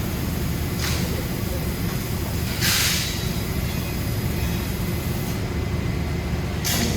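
Steady low hum of an Amada HG 1303 robotic press brake cell running, with short hisses about a second in, near three seconds (the loudest) and near the end.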